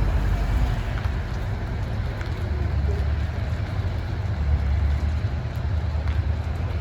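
Scania truck's V8 diesel engine running steadily with a low rumble.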